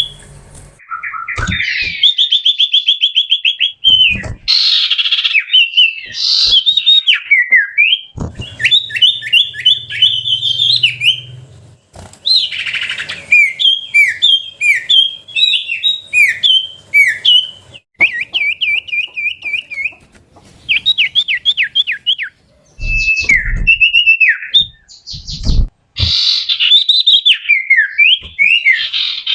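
Common iora (cipoh) singing a varied whistled song: rapid trills and runs of repeated sharp notes, phrase after phrase with short pauses between.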